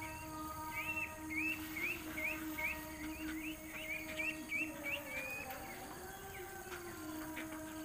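A bird chirping in a quick series of short rising chirps, about two to three a second, which stops a little past the middle. Under it runs a steady hum that bends up in pitch and back down, with a few sharp clicks near the end.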